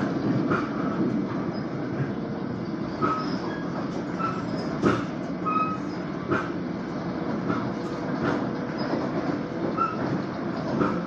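Ride noise inside an LIRR M7 electric multiple-unit commuter car running on the rails: a steady rumble with a few sharp clicks and knocks from the wheels and several brief, short high squeals.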